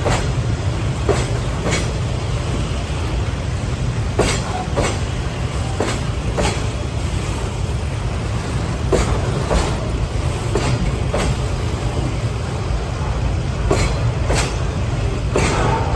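Freight train wagons rolling past with a steady low rumble, their wheels clacking over rail joints in pairs of knocks about half a second apart, every second or two.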